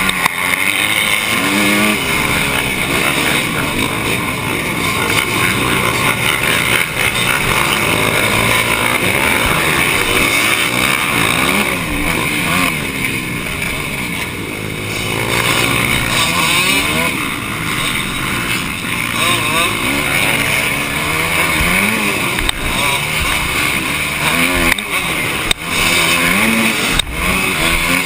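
Motocross bike engine heard on board, revving up and falling back again and again as the rider accelerates and shifts through the course. A few sharp knocks near the end.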